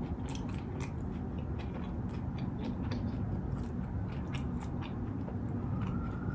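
Close-miked chewing of crunchy tortilla chips, with irregular crisp crunches. A faint siren starts near the end and rises slightly in pitch.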